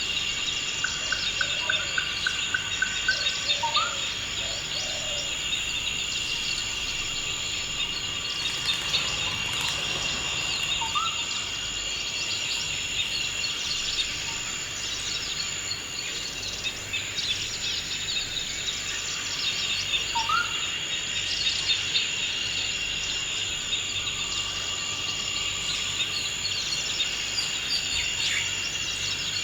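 Forest ambience of insects trilling steadily at two high pitches, with birds chirping throughout. A short rising bird call comes three times, about every eight seconds, and a quick run of even notes sounds near the start.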